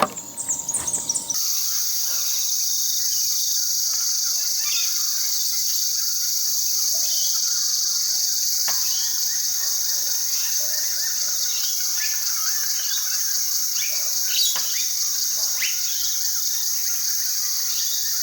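Steady, shrill insect chorus, high in pitch, starting suddenly about a second in, with scattered bird chirps over it.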